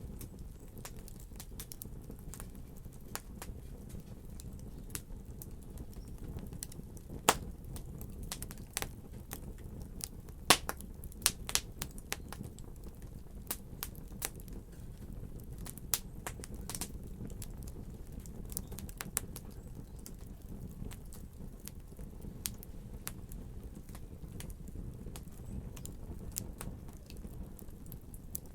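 Wood fire in a fireplace crackling, with a steady low rumble of flame and irregular sharp pops, a few louder snaps about a third of the way in.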